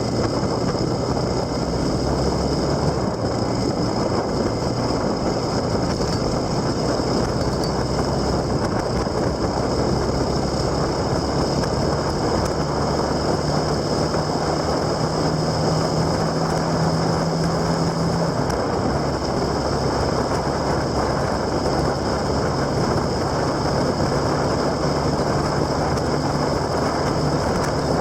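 Steady wind and road noise of a moving vehicle heard on board, with a low engine hum that rises in pitch for several seconds in the middle, then drops back.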